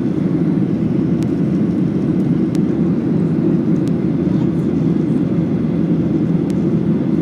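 Steady cabin noise of a Boeing 737-800 in its climb after takeoff: engine and airflow noise, strongest in the low-mid range, with a few faint ticks.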